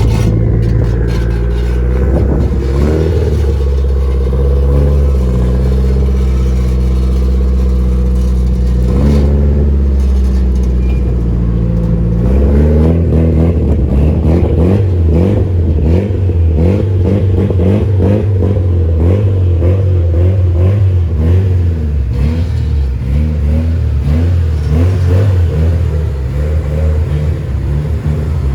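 Car engine running under way, rising in pitch as it accelerates about 9 and 12 seconds in and holding steady between.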